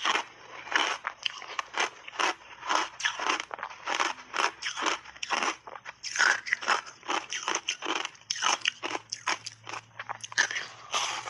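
Close-miked ice eating: hard ice bars being bitten and chewed, a rapid, irregular run of sharp crunches, several a second.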